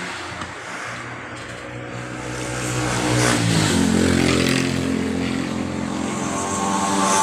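A motor vehicle's engine running close by, growing louder about three seconds in and then holding a steady hum.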